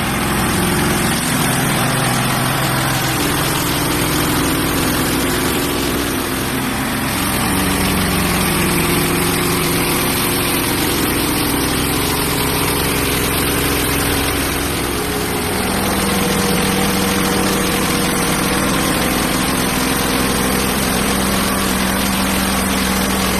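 Portable bandsaw sawmill's gas engine running steadily, its pitch shifting about fifteen seconds in and then holding.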